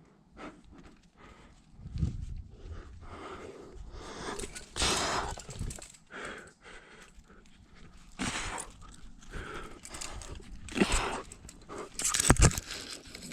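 A climber breathing hard in irregular heavy breaths, with scuffs and rubbing against rock, and a few sharp knocks near the end.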